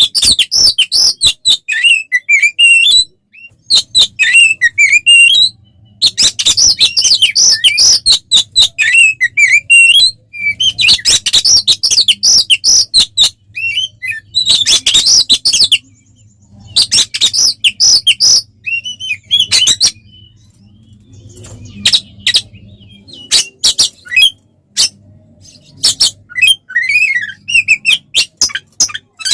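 Oriental magpie-robin (kacer) singing loudly in its aggressive fighting song: fast bursts of sharp clicking notes and short whistled slurs, broken every few seconds by brief pauses.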